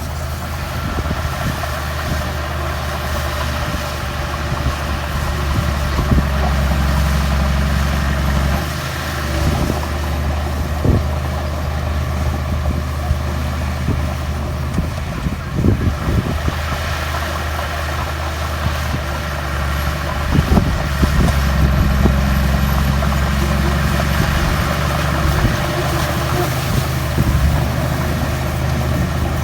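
Heavy diesel earthmoving engines running: a bulldozer working with dump trucks. The engine note grows deeper and stronger twice as it takes load, with a few short knocks in between.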